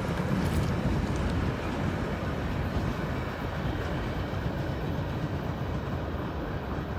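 Freight train rolling past, a steady rumble of wheels on rail that slowly gets quieter.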